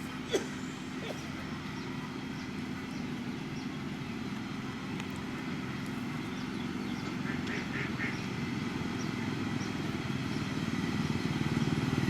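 Diesel engine of heavy road-building machinery running steadily, growing louder toward the end as the machine draws closer. A brief sharp click comes about half a second in.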